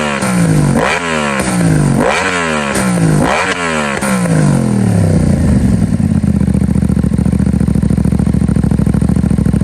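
Aprilia Tuono 660's parallel-twin engine through a MIVV Delta Race exhaust, the throttle blipped about five times in quick succession, each rev dropping straight back, then settling into a steady, loping idle about five seconds in.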